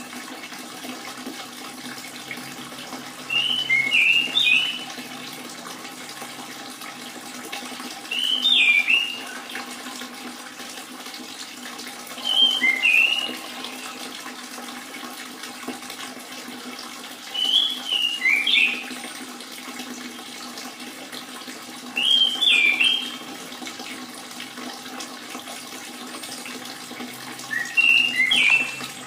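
Orange-headed thrush giving short whistled phrases, six times at intervals of about four to five seconds, over a steady trickle of running water.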